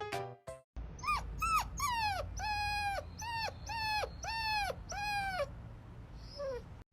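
A dog whimpering in a rapid string of about ten short, high-pitched whines, each dropping in pitch at its end, then one last fainter whine.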